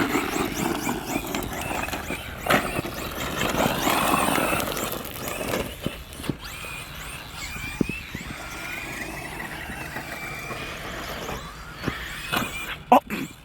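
Brushless electric RC short course trucks driving, their motors and gears whining in pitch that rises and falls with the throttle over a gritty rolling noise. A few sharp knocks come near the end.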